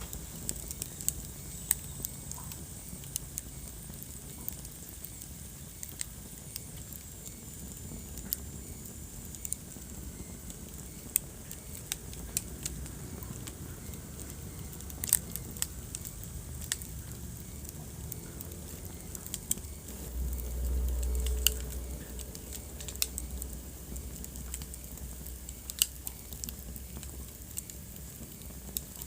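Wood fire crackling in a fireplace: sharp pops and snaps at irregular intervals over a steady low rumble of flame. About twenty seconds in, the low rumble swells louder for a couple of seconds.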